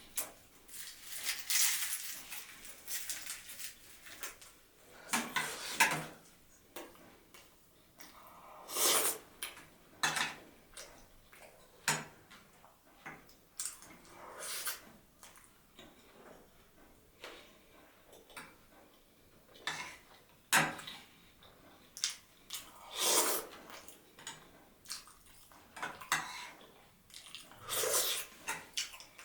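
A person eating close to the microphone: irregular chewing and mouth sounds with scattered clinks of dishes.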